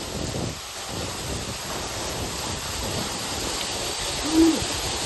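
Waterfall rushing steadily. Near the end a voice gives one short hooted "woo".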